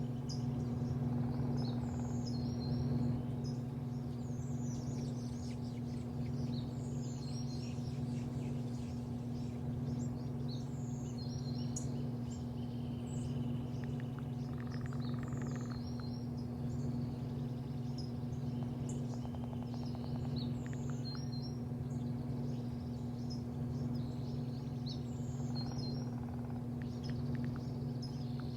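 Small birds chirping, with short high calls every second or two, over a steady low hum.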